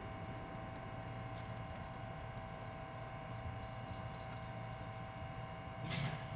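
Steady background hum, with a quick run of about five faint high chirps in the middle and a brief rustling noise near the end.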